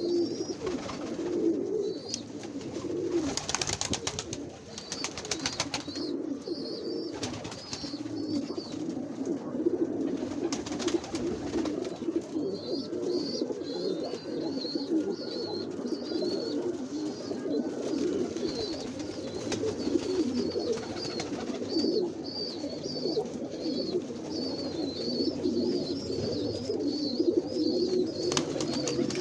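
Many domestic pigeons cooing together in a continuous overlapping murmur. From about twelve seconds in, thin high chirping runs over the cooing. A few short bursts of noise come in the first half.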